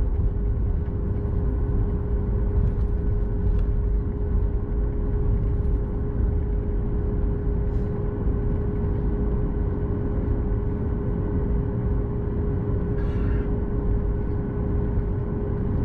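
Cabin noise of a Boeing 737 MAX 8 on the ground after landing: a steady low rumble from its CFM LEAP-1B engines at idle, with a constant hum. A brief faint rattle comes near the end.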